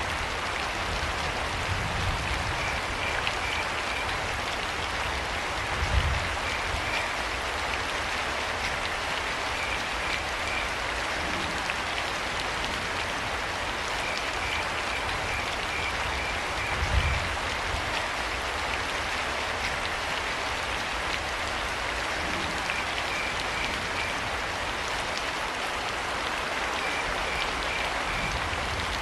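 Steady rain falling, with a cricket chirping in short runs of high pulses every few seconds. Two brief low thuds stand out, about six and seventeen seconds in.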